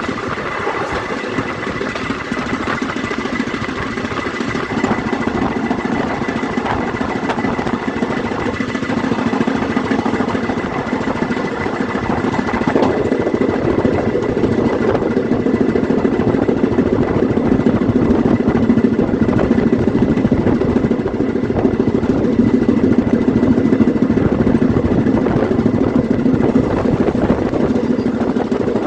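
An engine running steadily, growing louder about a third of the way through.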